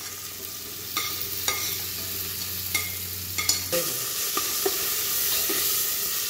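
Chopped onion, garlic and cheiro verde sizzling loudly in hot olive oil in a metal pot. A spoon stirring them knocks and scrapes against the pot with a series of sharp clicks.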